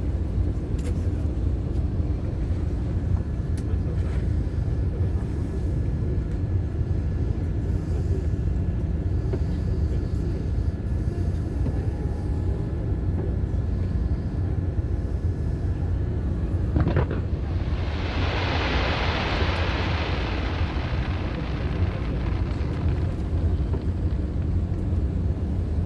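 A firework bursting with a single bang about two-thirds of the way through, followed by a few seconds of crackling, over a steady low rumble.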